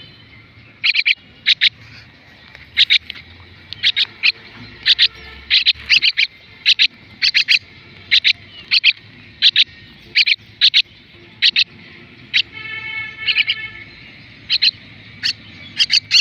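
Common myna chicks calling over and over in short, sharp, high chirps, often in quick pairs, with one longer, buzzier call about twelve seconds in.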